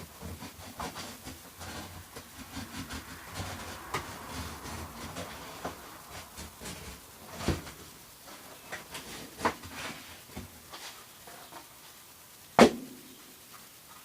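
Scattered light clicks, taps and rustles of craft materials being handled, with a sharp louder knock near the end.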